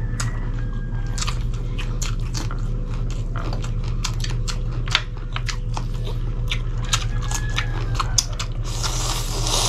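Close-miked mouth sounds of two people eating grilled chicken and pork barbecue by hand: chewing with a steady run of wet lip smacks and small clicks. A steady low hum runs underneath.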